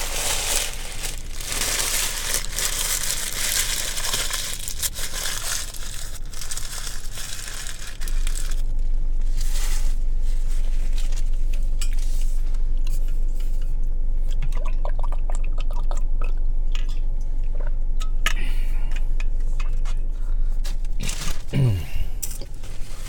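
Close-miked chewing of a toasted sub sandwich, with crisp crunching of the bread in the first several seconds, then softer, quieter chewing.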